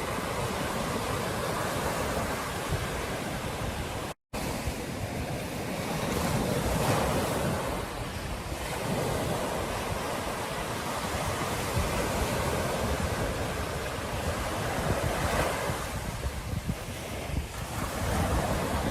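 Ocean surf breaking and washing on a beach, in slow swells of loudness, with wind buffeting the microphone. The sound drops out completely for a split second about four seconds in.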